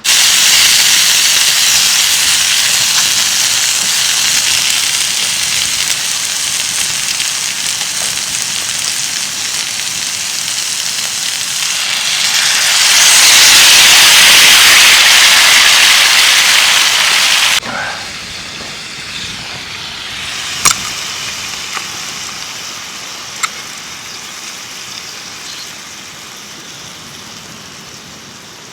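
Heavy rain pouring down in a dense, steady hiss that swells to its loudest partway through. It then drops off suddenly to a lighter rain that keeps easing, with a couple of sharp drip taps.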